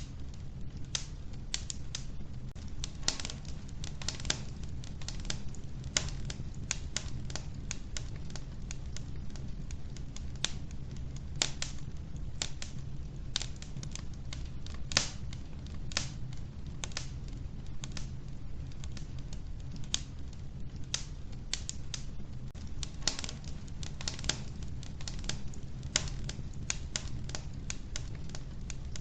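Wood fire burning in a wood-burning stove: logs crackling and popping in irregular sharp snaps, over a steady low rumble of the flames.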